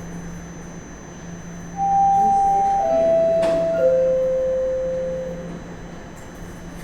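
Bombardier Toronto Rocket subway train's door-closing chime: three descending tones, each held about a second, warning that the doors are about to close. A short click comes partway through, over a steady low hum.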